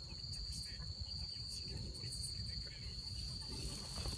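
Crickets trilling, one continuous high-pitched tone, over a low rumble.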